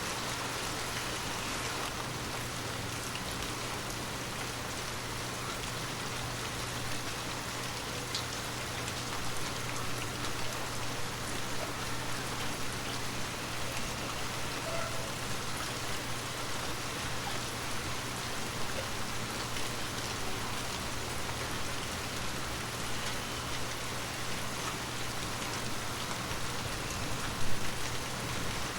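Heavy rain falling steadily, an even hiss with scattered individual drops ticking, over a faint steady low hum. One brief louder burst comes near the end.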